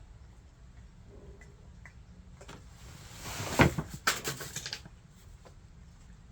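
Cats eating wet chicken food in sauce from their dishes: a run of clicks and smacking noises about halfway through, with one brief louder knock in the middle.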